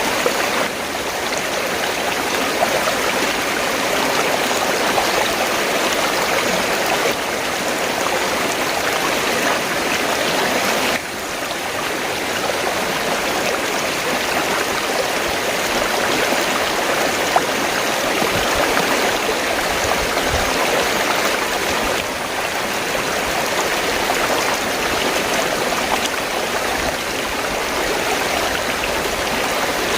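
River water running: a steady rush of flowing water, with a brief abrupt shift in its tone about eleven seconds in.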